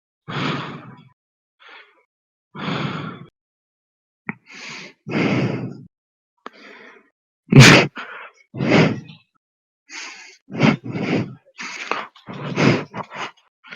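A person breathing heavily in loud, ragged gasps. The breaths come about every second or two at first, then quicken near the end, with one especially loud gasp in the middle.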